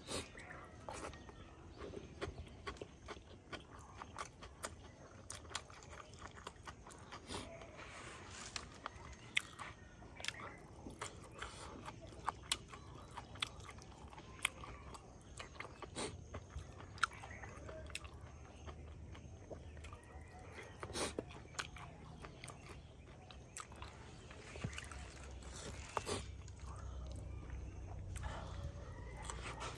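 Close-up chewing and crunching of a mouthful of rice mixed with fried silkworms, eaten by hand: many sharp, irregular crunches and wet mouth clicks.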